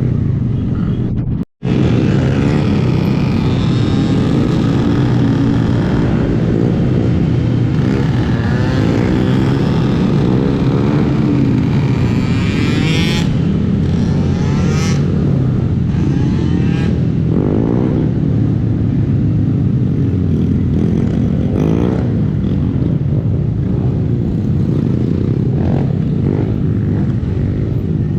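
Small single-cylinder Honda motorcycle engine running under way, its pitch rising and falling as the bike speeds up and slows. The sound cuts out for a moment about a second and a half in.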